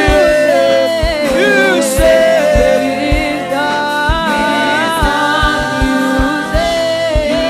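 Gospel worship music: singing voices holding long notes and sliding between them, over low drum beats.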